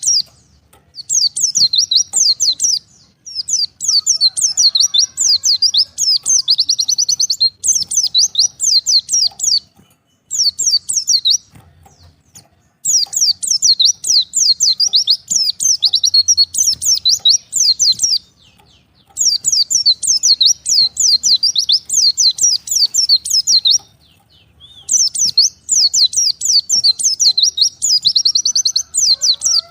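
White-eye (pleci) singing a fast, high twittering song of rapid notes, in long runs broken by short pauses.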